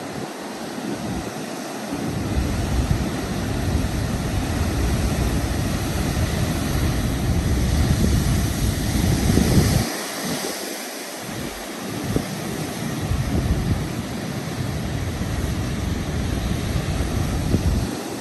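Rough sea surf crashing and washing against the shore, with strong wind buffeting the microphone. The surf swells louder about nine seconds in.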